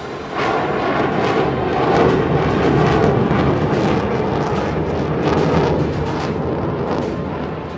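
Sukhoi Su-30MKI fighter's twin turbofan engines heard close by during a slow low-level pass: a loud, rough rush of jet noise with rapid crackling, swelling about half a second in and easing a little near the end.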